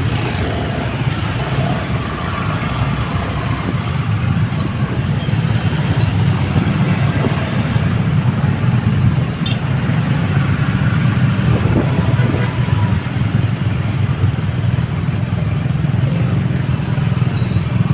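Motorcycle running on the road amid traffic: steady engine and road noise.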